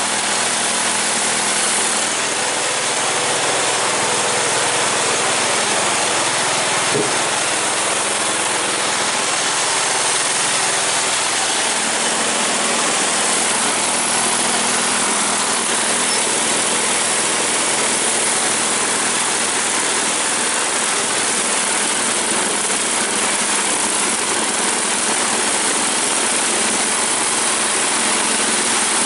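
Suburban 10 garden tractor engine running steadily at idle, just caught after a hard cold start.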